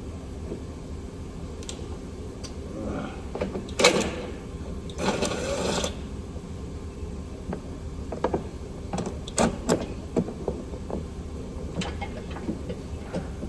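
Scattered clicks and knocks of metal hand tools being handled, with a loud knock about four seconds in and a short rushing noise just after, over a steady low hum.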